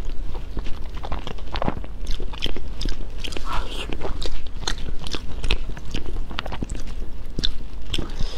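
A person biting and chewing food, with many short mouth clicks throughout.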